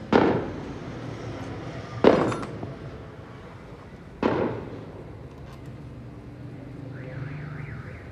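Three loud, sharp bangs about two seconds apart, each dying away over about half a second.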